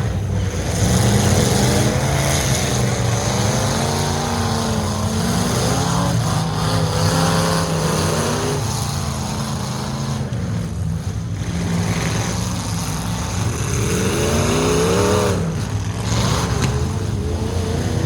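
Full-size demolition derby trucks running together, their engines revving up and falling back again and again over a steady low drone.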